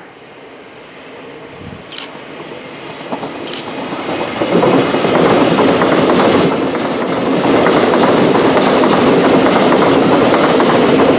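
Train approaching and passing at speed on the main line: a rushing noise that builds from about two seconds in and then stays loud, with a rapid clatter of wheels over the rails.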